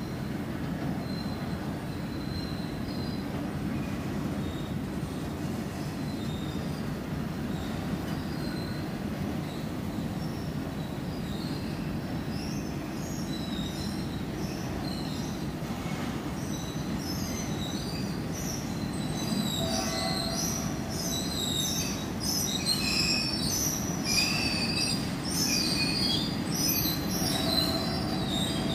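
Covered freight wagons rolling past with a steady low rumble of wheels on rail. Short high-pitched wheel squeals come and go, growing more frequent and louder through the second half.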